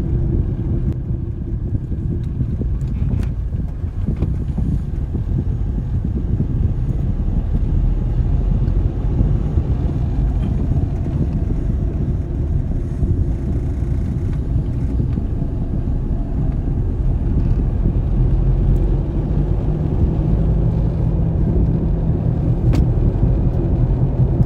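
Steady low rumble of a motor vehicle running, with an even engine hum underneath.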